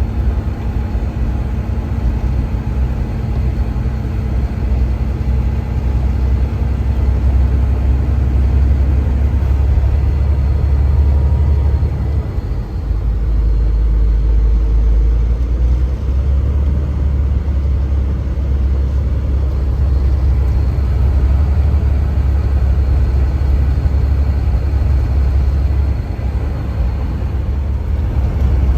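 Steady low engine and road drone heard inside a moving vehicle's cab at highway speed. A faint steady hum fades out about nine seconds in.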